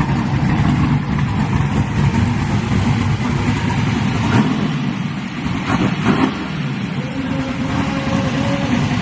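Engine of a twin-turbo box Chevy running with a steady, uneven low rumble. A few short sharp noises come around the middle, and a thin steady higher tone joins in for the last couple of seconds.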